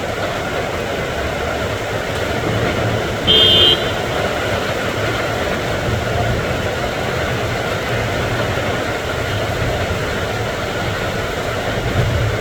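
Steady rain falling with a low rumble under it, and one short horn blast about three seconds in.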